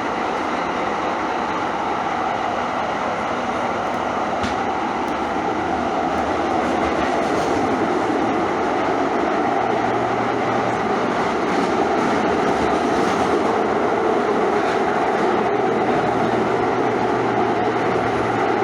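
A train in motion: a steady rumble of running noise, getting slightly louder about seven seconds in.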